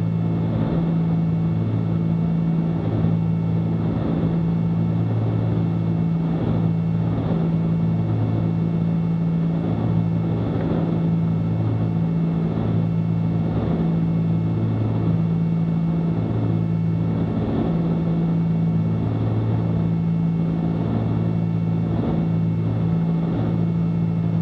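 Cabin drone of a Cessna 310Q's two six-cylinder Continental piston engines and propellers at reduced approach power. The sound swells and fades in a slow, regular throb about once a second or so, the beat of two propellers turning at slightly different speeds.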